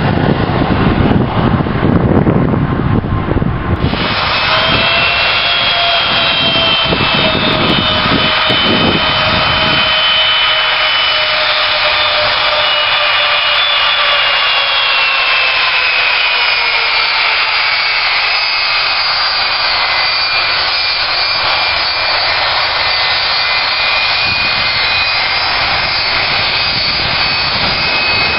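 Jet airliner's engines whining, several steady tones that slowly fall in pitch, over a heavy low rumble that is strongest in the first few seconds and gone by about ten seconds in.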